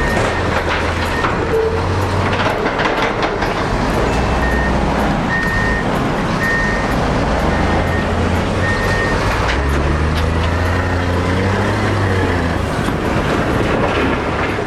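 Heavy diesel machinery running hard, with clattering knocks and a reversing alarm beeping about once a second through the middle.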